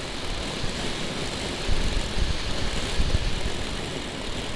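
Motorcycle riding at road speed: its engine running under heavy wind noise buffeting the microphone in irregular low gusts.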